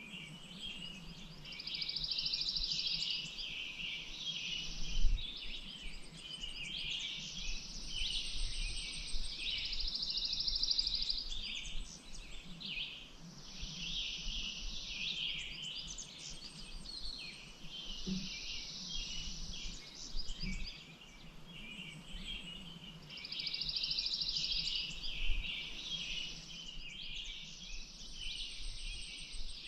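A chorus of songbirds singing and calling over one another, with rapid trills repeating every few seconds. Two brief low thumps come about five and twenty-five seconds in.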